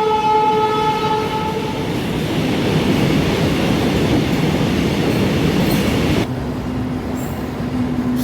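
Indian Railways locomotive horn sounding a steady blast that ends about two seconds in, followed by the rumble and rattle of a train running past. About six seconds in the sound cuts abruptly to a lower, steady hum.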